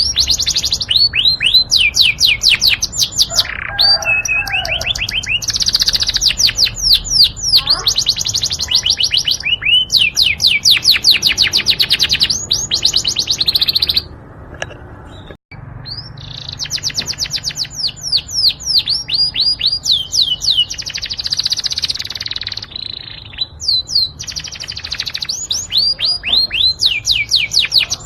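Yorkshire canary singing: long rolling runs of rapid trilled notes, with a short break about halfway through.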